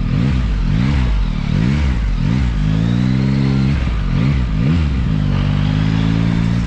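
Yamaha XSR900's three-cylinder engine being blipped: revs rise and fall quickly several times, then hold steadier for a moment a bit past halfway and again near the end.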